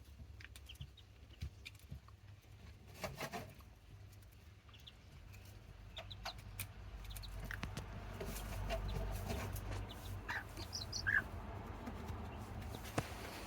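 Serama bantam hen and her day-old chicks: short high chick peeps scattered through, strongest about two-thirds of the way in, with occasional hen clucks and small scattered clicks.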